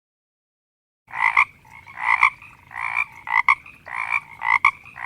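Frog croaking over and over, starting about a second in: quick paired croaks, roughly one pair every 0.7 seconds.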